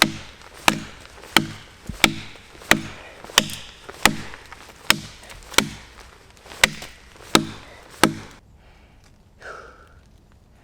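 A small axe chopping into a wet log with about a dozen sharp, even strikes, roughly one every 0.7 seconds. The chopping stops about 8 seconds in.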